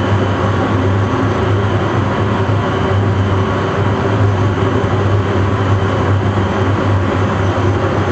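Cabin noise of a NAMC YS-11's Rolls-Royce Dart turboprop engines: a loud, steady propeller drone with a deep hum under a constant rushing noise.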